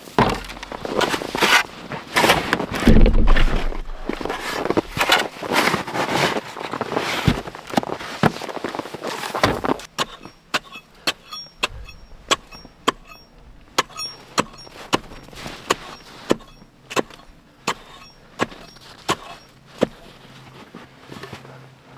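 Snow shovel scraping and digging into snow, busy and loud for about ten seconds, then giving way to scattered sharp clicks and knocks about twice a second.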